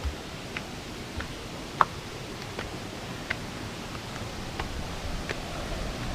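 Scattered short, sharp clicks or chirps, roughly one every half second to a second and the loudest about two seconds in, over a steady low rumble.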